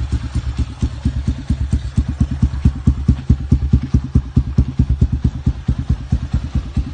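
Scrambler motorcycle engine idling, with an even, loping beat of about nine to ten pulses a second.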